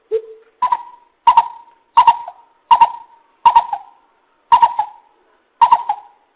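Greater coucal calling: a series of eight deep hooting notes, the first two lower and the rest about an octave higher, each with a hard, clicky start and spaced a little wider apart as the series goes on.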